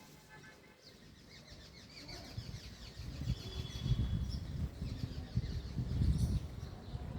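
Birds chirping with many short, high calls, over a low rumble that swells from about two seconds in and becomes the loudest sound.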